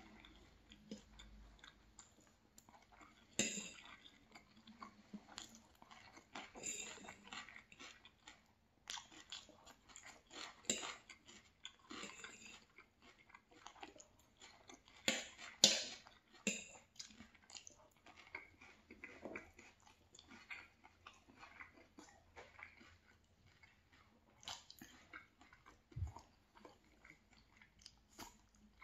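Close-up mouth sounds of chewing and biting a mouthful of food, fried fish and crisp salad, with irregular crunches throughout; the loudest crunches come a few seconds in and about halfway through.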